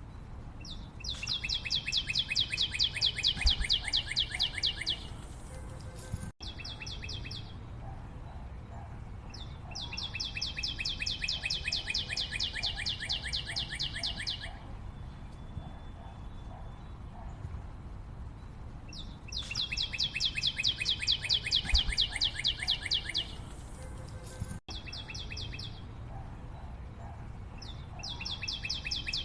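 A bird giving long, rapid pulsed trills high in pitch, each about four seconds long and coming back about every nine seconds, over steady forest background noise.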